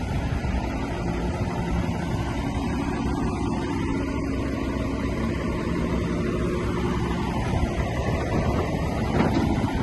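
Heavy earthmoving machinery's diesel engine running steadily under load, its pitch shifting slightly, with a brief knock about nine seconds in.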